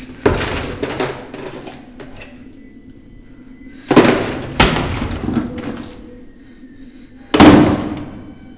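A desk drawer being roughly pulled and pushed, three loud sliding thuds a few seconds apart, each trailing off over about a second.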